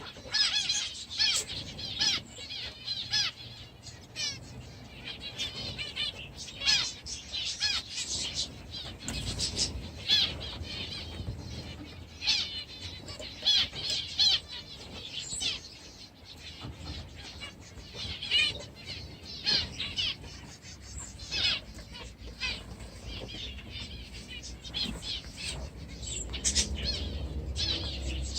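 A flock of budgies chattering, with busy, overlapping chirps and warbles and squawks. There are flutters of wings now and then.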